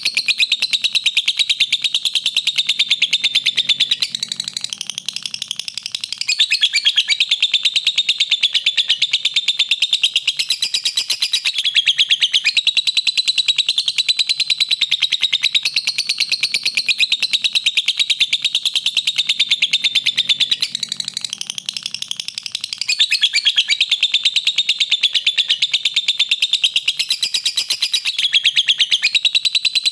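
Lovebird chattering song: a long, unbroken stream of rapid high chirps, with brief softer stretches about four seconds and twenty-one seconds in.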